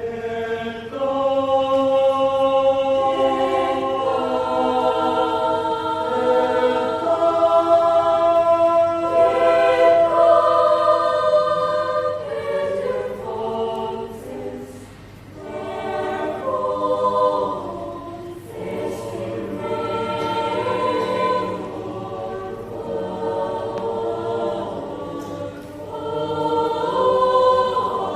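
High-school youth choir singing in several parts, holding long chords that move in steps, with the volume swelling and falling back a couple of times.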